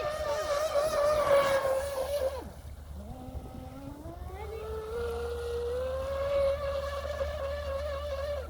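Traxxas RC boat's motor whining at speed. About two seconds in it drops to a low hum as the throttle comes off, then rises steadily in pitch over the next couple of seconds and holds at full whine again.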